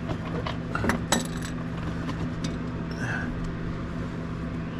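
A few light metallic clinks of hand tools on metal about a second in, over a steady low hum.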